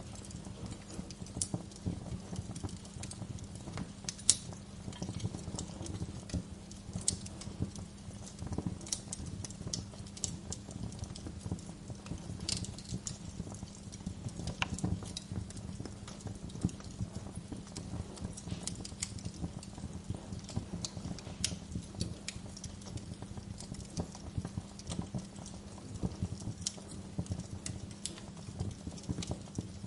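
Wood fire crackling, with irregular sharp pops, several louder ones, over a low steady hum.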